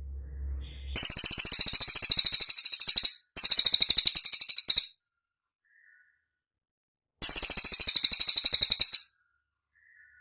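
Cililin songbird giving three loud, high-pitched, rapid trills of fast repeated notes, each one and a half to two seconds long, with pauses between.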